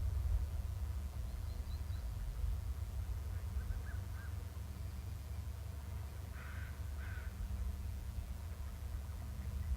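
Birds calling: a few faint short calls about three and a half seconds in, then two louder short calls in quick succession a little past halfway, over a steady low rumble.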